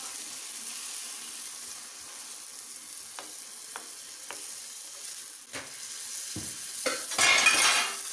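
Masoor dal sizzling in a nonstick frying pan with a little water just added, stirred with a slotted spoon that knocks lightly against the pan a few times. The sizzling grows louder about seven seconds in.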